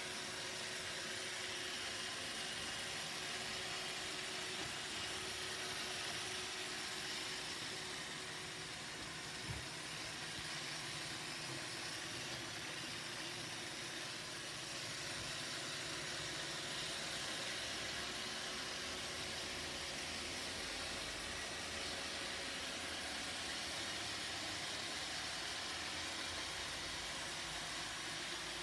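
Roomba robot vacuum running, a steady whirring hiss from its suction motor and brushes, with one light knock about nine and a half seconds in.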